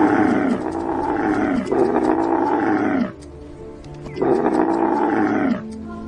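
An animal calling loudly three times, each call over a second long and falling in pitch, over steady background music.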